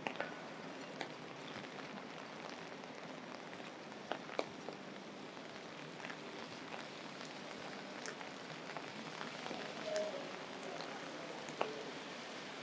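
Steady rain falling, with scattered sharp ticks of drops striking the umbrella held over the microphone.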